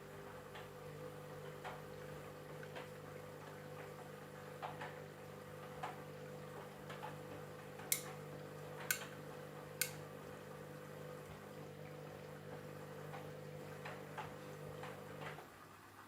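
Candy washing machine running with a steady motor hum and scattered light clicks, three sharper clicks in the middle; the hum stops suddenly near the end.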